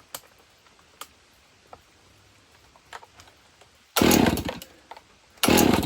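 Two-stroke Husqvarna 55 chainsaw being pull-started: two short bursts of engine noise about 1.5 s apart, each starting suddenly and dying away, as the saw is cranked and fails to keep running.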